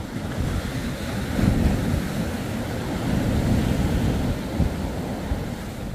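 Surf breaking on the beach, with wind buffeting the microphone; the rumble swells about a second and a half in.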